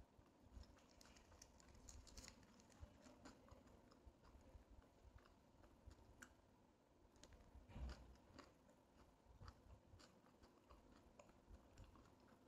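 Faint chewing of food, with scattered small mouth clicks, and one louder thump about eight seconds in.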